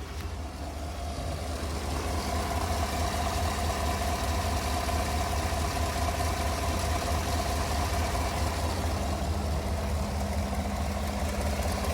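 2017 Chevrolet Tahoe PPV's 5.3-litre V8 idling steadily, growing louder over the first couple of seconds. The engine has an exhaust leak, which the owner places at cylinder number 8.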